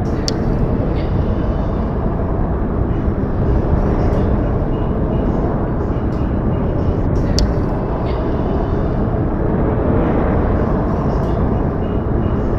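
Steady low outdoor rumble, even and unbroken, with a few faint sharp ticks scattered through it.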